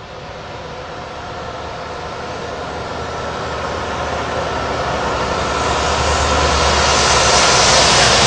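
Volvo truck approaching at speed, its engine and road noise growing steadily louder.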